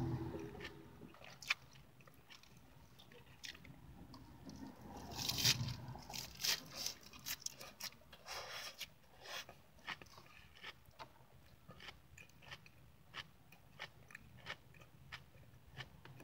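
A person chewing a mouthful of crisp lettuce salad with the mouth open, close to the microphone: a run of wet, crunchy bites, loudest and thickest from about five to nine seconds in, then lighter crunches.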